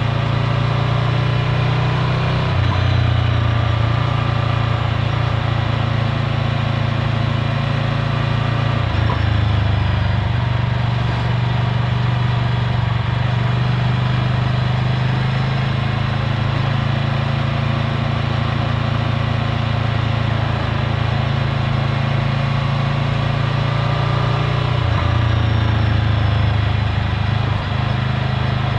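Ducati Scrambler Full Throttle's air-cooled L-twin engine running through a Termignoni exhaust at low, steady revs. The engine note changes briefly three times: a few seconds in, about a third of the way through, and near the end.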